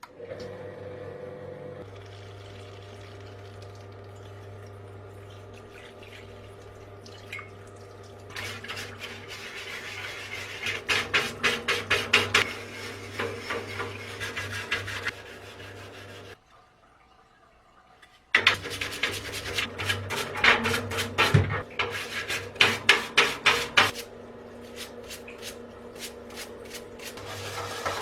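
Rhythmic rubbing strokes on a part of a vintage coffee grinder being restored, about three a second, over a steady low hum. The strokes stop for about two seconds partway through, then resume.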